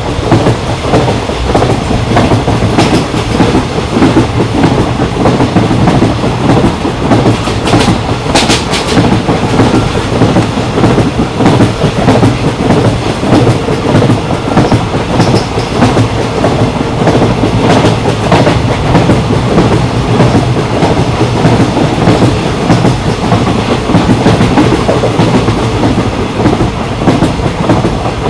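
A moving train running steadily on the rails: a continuous rumble and rattle of wheels on track. A brief sharp high-pitched sound stands out about eight seconds in.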